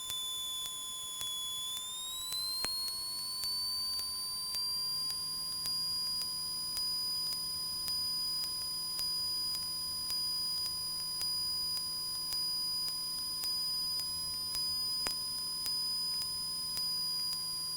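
Steady electrical whine and tones in a Cessna 172's headset intercom audio, with the cabin and engine noise gated out. One tone rises in pitch about two seconds in and then holds, and there are faint regular ticks about once a second.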